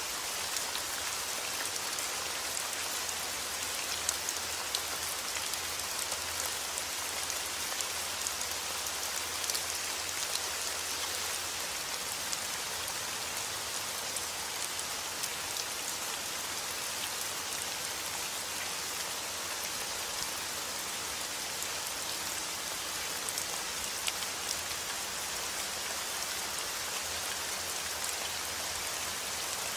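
Steady heavy rain falling outdoors, an even hiss with many small drop ticks.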